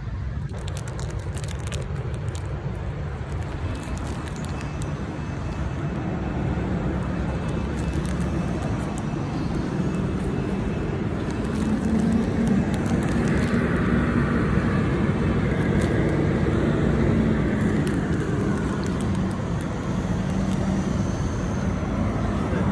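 Steady motor-vehicle engine and road noise, a continuous low rumble that grows somewhat louder about halfway through.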